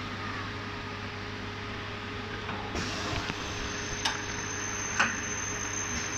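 Semi-automatic blood collection tube dosing and drying machine running: a steady hum with a constant tone, and two sharp clicks about a second apart in the second half, the second the louder.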